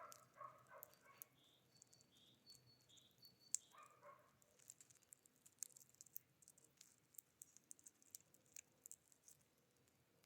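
Faint songs of wild birds: a small bird gives a few short high notes that alternate between two pitches, with a couple of brief harsher calls. Scattered light ticks and clicks follow through the second half.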